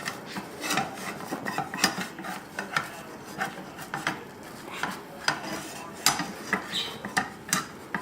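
Spatula scraping and clicking against a frying pan in short, irregular strokes as it is worked under a frying egg to loosen it from the pan.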